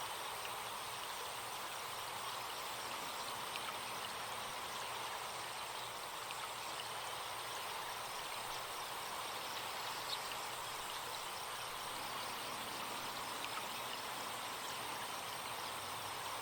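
Forest stream flowing steadily, with a thin, steady high insect buzz and a few faint chirps over it.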